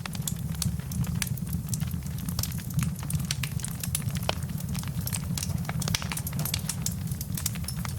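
Campfire burning, crackling with frequent sharp pops over a low, steady rumble.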